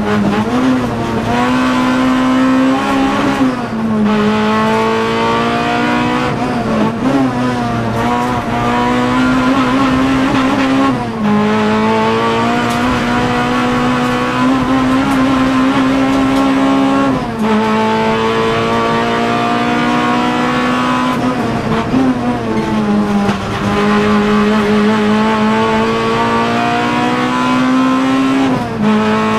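Toyota Corolla T-Sport's engine heard from inside the cabin, driven hard on a hillclimb: its pitch climbs slowly under load and then falls sharply about six times as the driver shifts and lifts between pulls.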